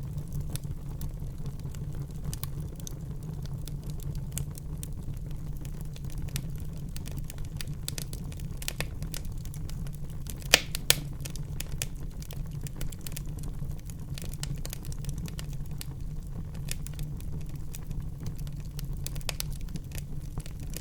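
Wood fire burning in a fireplace: a steady low rumble of the flames with irregular crackling, and two sharp, louder pops close together about halfway through.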